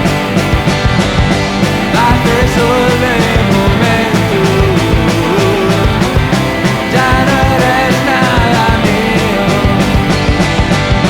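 Rock band playing an instrumental passage: drums keeping a steady beat under bass and electric guitars, with a melodic lead line that bends and slides in pitch.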